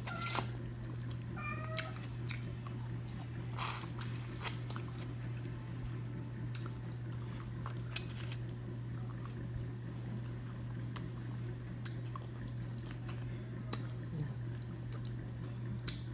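A person chewing and smacking while eating charbroiled oysters, with a few sharp clicks. A cat gives one short meow about two seconds in. A steady low hum sits under it all.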